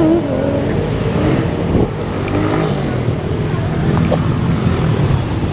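Steady engine and road noise of a car, heard from inside the cabin while driving.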